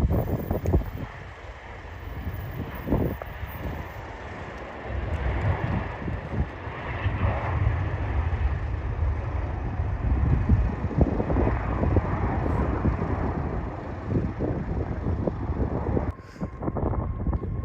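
Jet airliner engine noise, a rushing sound that swells and fades, with wind buffeting the microphone. It cuts off abruptly near the end, leaving a faint steady tone.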